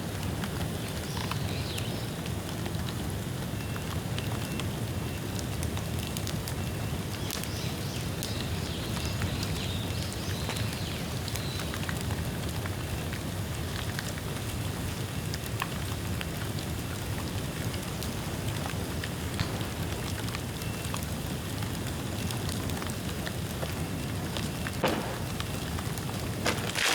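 Bamboo bonfire burning: a steady crackle and hiss over a low rumble of flames, with scattered pops and a couple of sharper pops near the end.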